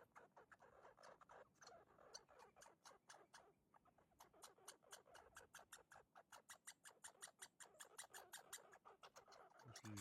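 Raccoon chewing food, a quick, faint run of crunching and smacking clicks, several a second.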